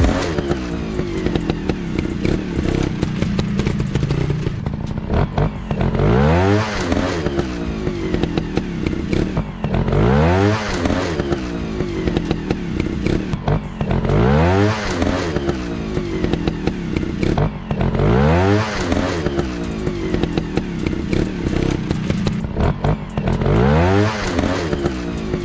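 Dirt bike engines running. Revs rise sharply and drop back in repeated surges about every four seconds over a steady lower engine drone.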